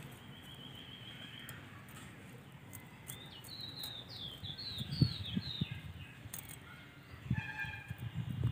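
A bird sings a quick run of about six high, down-slurred chirps a few seconds in, over a steady outdoor hiss. Soft low thumps come about halfway through and again near the end.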